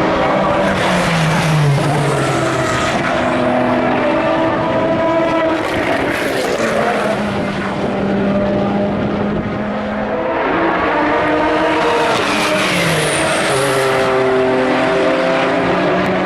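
Several endurance race cars running on the circuit, their engines overlapping at different pitches, with the engine notes dropping as cars go by about a second in and again late on.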